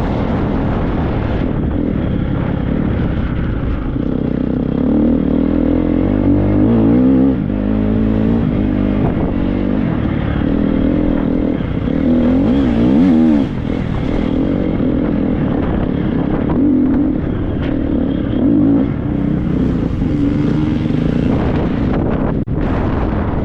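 Triumph 250 motocross bike's single-cylinder four-stroke engine being ridden hard, its revs rising and falling again and again with several louder bursts of throttle, over wind noise on the microphone.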